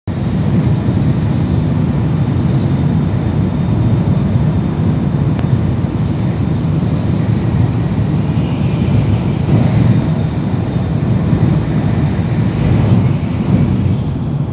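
Deep, steady running noise of a Shinkansen bullet train travelling at speed, heard inside the passenger cabin, with a brief click about five seconds in.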